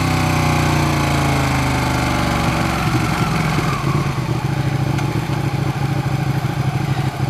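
Ducati 959 Panigale's L-twin engine, its revs sinking as the bike slows. From about three seconds in it settles to a steady low idle with an uneven, pulsing beat.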